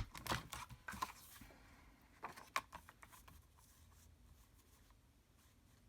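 Cardstock being handled and cut: a few faint clicks and papery rustles in the first three seconds or so.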